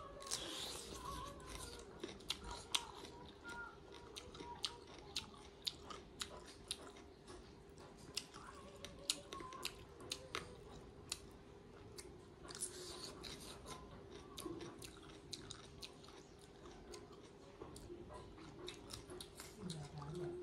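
Close-miked eating: bites into raw cucumber slices and chewing, with many short crunches and mouth clicks scattered throughout, over a faint steady hum.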